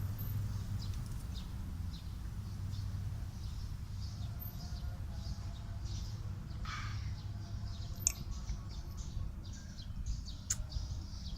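Small birds chirping in short, scattered high calls over a steady low background rumble.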